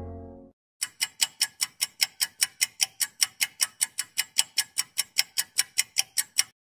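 Clock-ticking sound effect: a steady run of sharp ticks, about five a second, lasting nearly six seconds. It follows the fading end of a low horn blast in the first half second.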